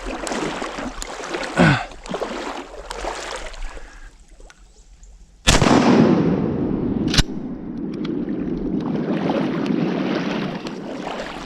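Two shotgun blasts about a second and a half apart, the first after a quiet moment, followed by a loud steady rushing noise.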